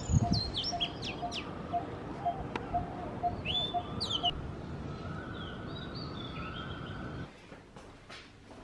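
Birds chirping and whistling in short calls over a steady outdoor background noise, with a repeated low note about two or three times a second through the first half. Near the end the outdoor sound cuts off to quieter room tone.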